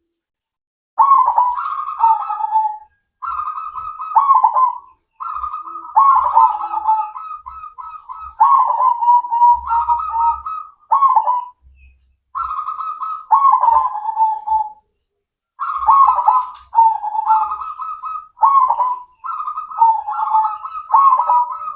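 Zebra dove (perkutut) of the cemani majapahit type cooing its song over and over. It sings short phrases of stepped, wavering coos, each a second or two long, with brief pauses between them.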